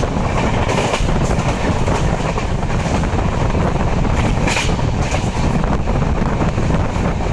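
A train running on rails: a steady rumble with an irregular clatter of wheels over the track, and a brief high hiss or screech about four and a half seconds in.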